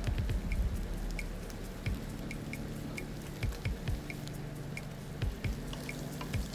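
Prawns frying in a little butter in a nonstick pan: a light, irregular crackle of small pops and spits.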